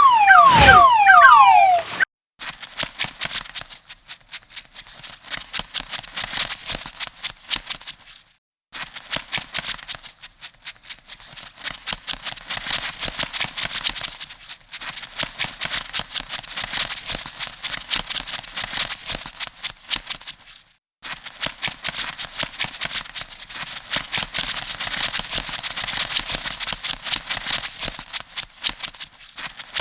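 Crab sound effect: a dense, rapid clicking rattle that breaks off briefly three times. It is preceded by two quick falling electronic chirps at the very start.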